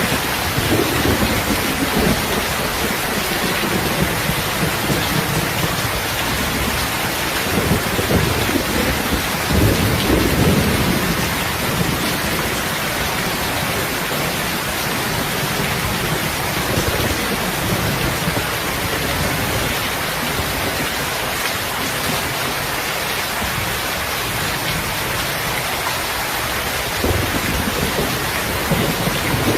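Steady, dense rain falling, with low rumbles swelling up three times: about a second in, for a few seconds in the middle, and near the end.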